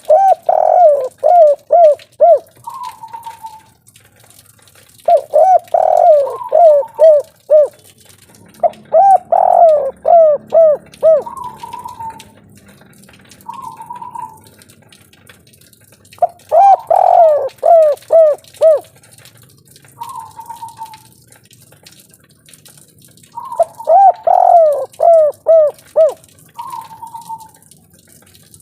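Spotted dove (tekukur or derkuku) singing its 'kuk 3' song: five loud phrases, each a quick run of repeated falling coos, with a single short higher coo between phrases.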